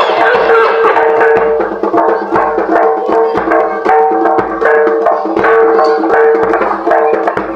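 Jaranan ensemble music played live: rapid hand-drum strikes over gamelan-style pitched metal notes and a held tone.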